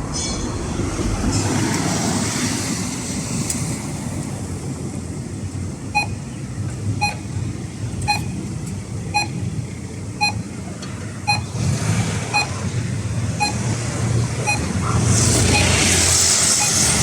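Traffic light's audible pedestrian crossing signal beeping about once a second, starting about six seconds in, over steady road traffic. Near the end a passing vehicle briefly drowns it out with a louder hiss.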